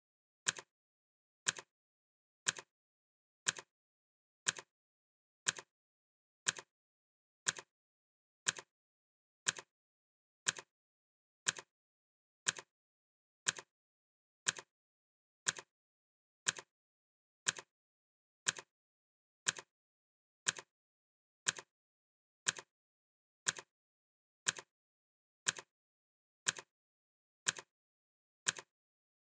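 Clock ticking, one sharp tick every second, each tick followed closely by a softer second click, with silence between ticks.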